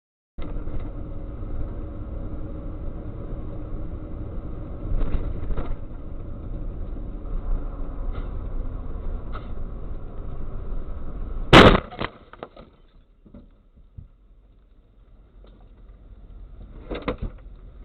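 A car driving, with steady road and engine noise, then one loud crash impact about two-thirds of the way through, followed by a few smaller knocks. After that the driving noise drops away to a low hum.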